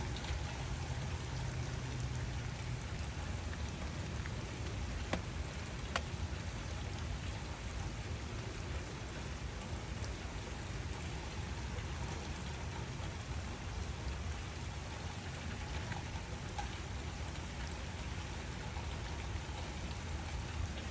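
Steady rain falling, with a few distinct drop ticks about five and six seconds in, over a low rumble.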